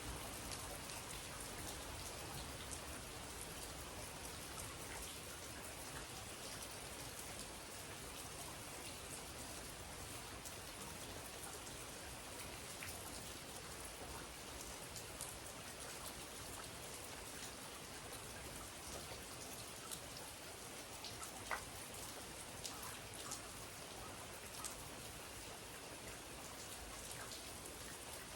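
Steady rain falling, with scattered individual drops ticking close by; one drop about three-quarters of the way through is louder than the rest.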